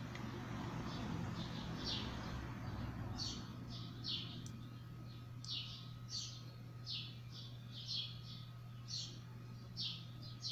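A small bird chirping repeatedly: short, high, falling chirps about twice a second, starting about three seconds in. Underneath are a soft hiss in the first few seconds and a low steady hum.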